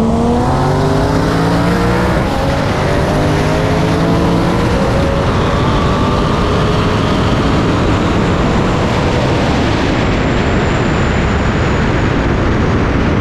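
Car engine at full throttle accelerating hard from a roll, its pitch climbing, then dropping at gear changes about two and five seconds in, under heavy wind and road noise at speed.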